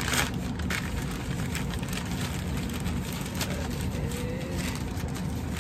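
Packaging crinkling and rustling with scattered clicks as a model train car is unwrapped by hand, over a steady low hum.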